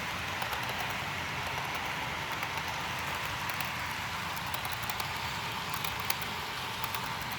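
HO-scale model train running on the layout's track: a steady hiss with scattered light clicks of the wheels over rail joints, and one sharper click about six seconds in.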